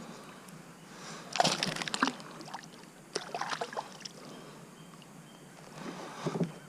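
Water splashing and sloshing in short bursts, about a second and a half in, around three seconds in and again near the end, as a hooked largemouth bass is fought and brought to the kayak.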